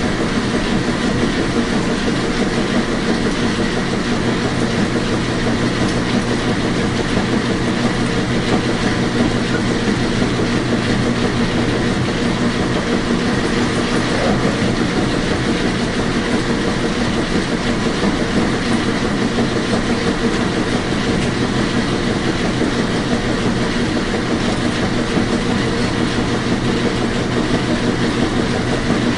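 Washing machine running: a steady mechanical hum under a constant, dense churning rush, unchanging throughout.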